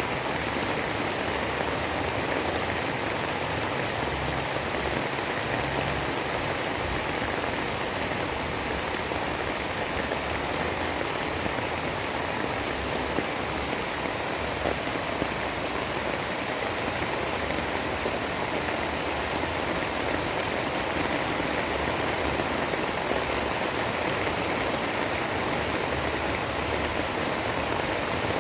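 Storm ambience of steady, dense rain noise, an even hiss with faint scattered ticks and no lulls or gusts.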